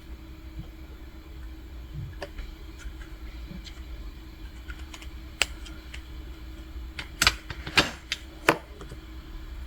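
Elmer's glue slime being worked by hand, giving scattered small clicks and pops, sparse at first and then three sharp loud ones a few seconds before the end, over a faint steady hum.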